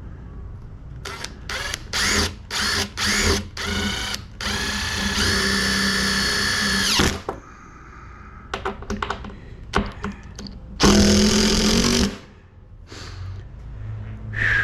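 Cordless drill driving screws. It gives a run of short trigger bursts, then a steady whine for about three seconds that stops sharply, then one more burst about a second long near the end.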